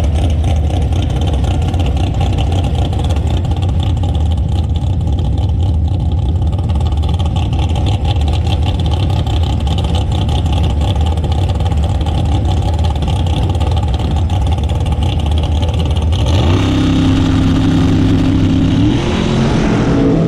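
Drag race car engine running with a heavy, steady low rumble, then revving up sharply about three-quarters of the way through and climbing higher again just before it stops abruptly.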